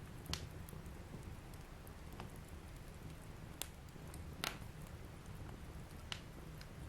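Fire burning in a fireplace: a steady low rush of flames with a handful of sharp crackles and pops, the loudest about four and a half seconds in.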